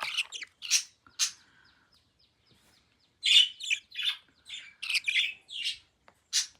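Baby budgerigar chirping: a few short calls, a pause of about a second and a half with only faint soft ticks, then a quicker run of about eight chirps.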